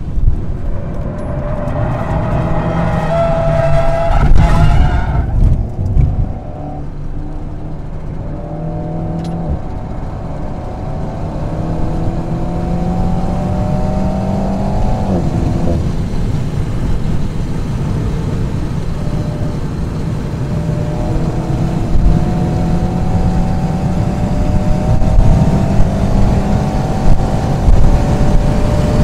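Alpine A110's turbocharged 1.8-litre four-cylinder engine heard from the cabin under hard acceleration. The revs climb, drop at an upshift about four and a half seconds in with a brief loud rush of noise, then climb through the next gear. They drop at a second upshift about fifteen seconds in and rise steadily again.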